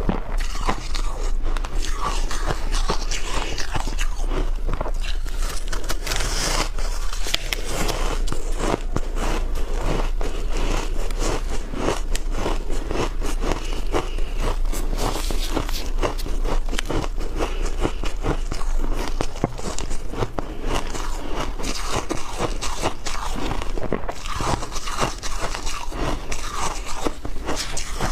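Shaved ice being bitten and chewed close to the microphone: dense, irregular crunching and crackling that goes on without a break.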